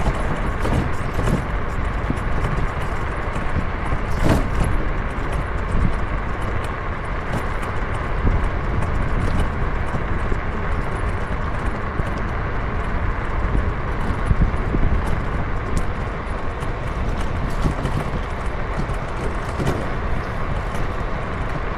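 Steady road and wind rumble of a moving ride, heavy in the low end, with a single sharp click about four seconds in.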